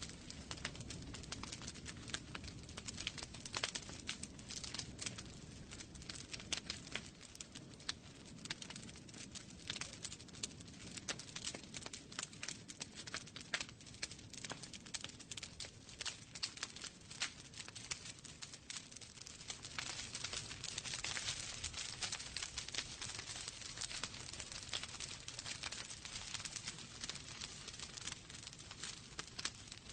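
Wood fire in a fireplace crackling, with many small irregular pops and snaps over a soft low rumble of the flames.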